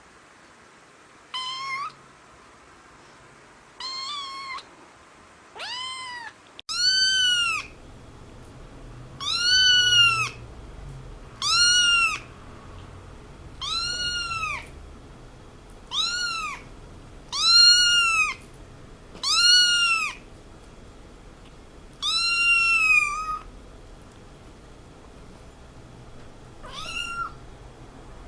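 A cat meowing over and over: about a dozen separate meows, roughly two seconds apart, each rising and then falling in pitch.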